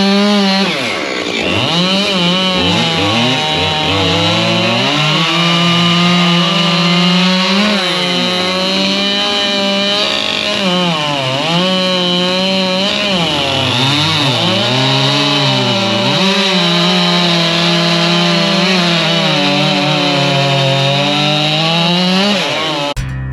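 Husqvarna 592 XP two-stroke chainsaw running at high revs and cutting firewood, its engine pitch dipping under load and climbing back again and again as the chain works through the wood.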